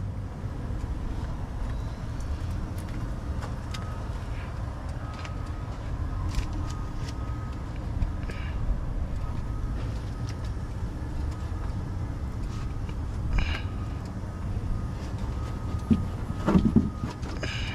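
Semi-truck diesel engine idling with a steady low rumble, with a faint thin whistle coming and going over it and a few short knocks.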